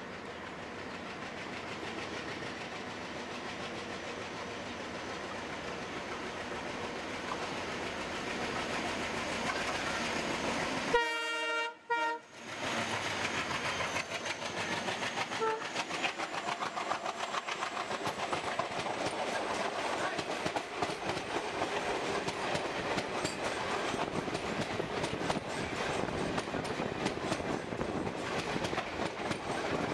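An oncoming passenger train draws closer and grows louder. A locomotive horn sounds one short blast about a third of the way in. Then the train's coaches pass close alongside, their wheels clattering over the rails in a fast, steady clickety-clack.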